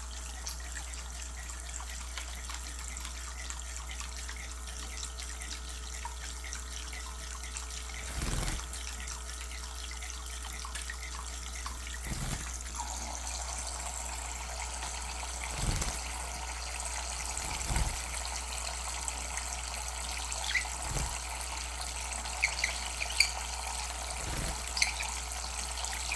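Tap water running steadily from a faucet, with about six soft thumps or splashes spread through the second half and a few small clicks near the end.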